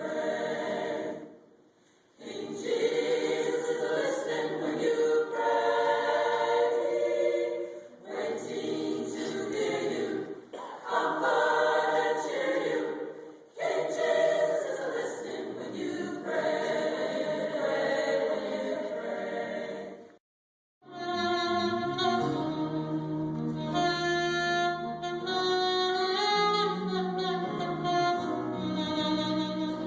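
A choir singing in phrases, with short breaks between them. About twenty seconds in, the sound cuts out briefly, then a different song begins: held sung notes over an instrumental accompaniment.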